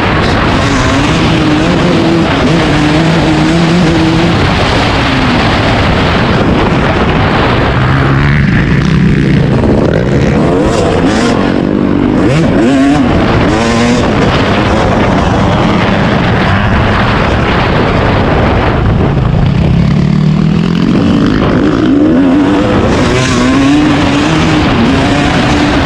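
Dirt bike engine running on a motocross track, its note rising and falling repeatedly as the throttle opens and closes, under a loud rushing noise.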